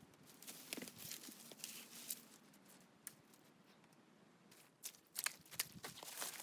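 Faint rustling and crinkling with scattered small clicks, a quiet pause in the middle, then a quick run of sharp clicks and crunches near the end.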